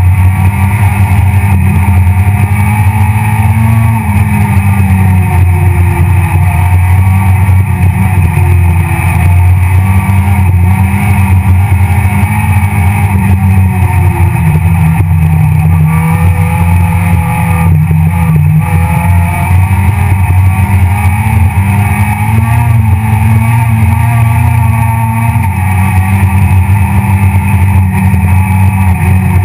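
Citroën C2 R2 Max rally car's engine heard loud from inside the cabin, pulling hard, its revs climbing and dropping repeatedly with gear changes and throttle lifts.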